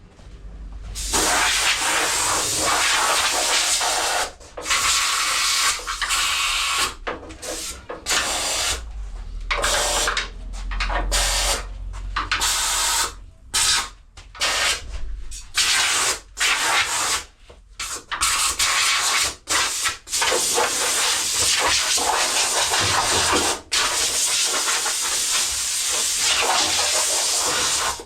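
Compressed-air blow gun blowing sanding dust off a car's engine bay in repeated hissing blasts. Some blasts are short and some last a few seconds, and near the end the air runs for a longer unbroken stretch.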